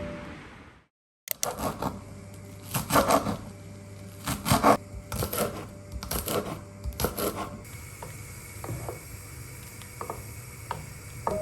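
Background music fading out, then a series of short rasping, rubbing strokes, often in pairs, over a steady low hum; the strokes thin out to faint ticks in the last few seconds.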